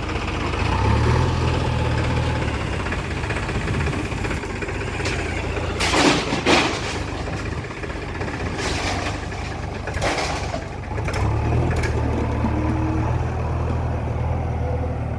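Heavy diesel machinery engine running steadily, with a few short, loud rushing noises about six and ten seconds in.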